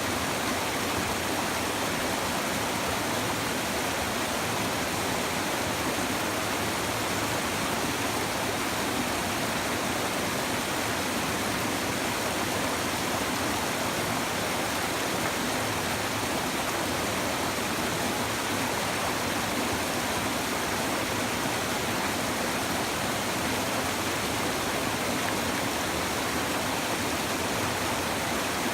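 A shallow river babbling over stones, a steady rushing of water with no changes.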